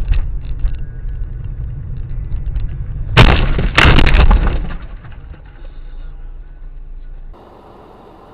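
Car crash on a dashcam: a steady low rumble of the moving car, then two loud collision impacts a little over three seconds in, about half a second apart, with a crunching, breaking tail. Near the end the rumble cuts off abruptly, leaving quieter steady noise.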